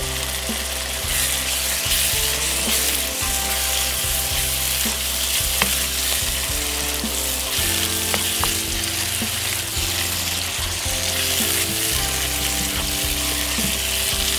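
Chopped onions and garlic-ginger paste sizzling steadily as they fry in oil in a non-stick wok, stirred and scraped with a spatula.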